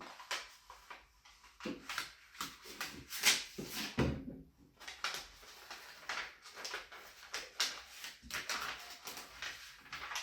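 Sheet of vinyl peel-and-stick paper being peeled and handled: irregular crinkling and rustling, with a louder crackle about four seconds in.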